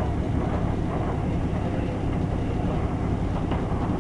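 Steady low rumble of a diesel commuter train standing at a halt, heard from inside the carriage.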